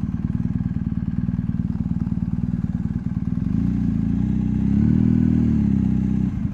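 BMW R1250GSA's boxer-twin engine running at low road speed; about three and a half seconds in its pitch rises as it accelerates, peaks near five seconds, then falls as it eases off.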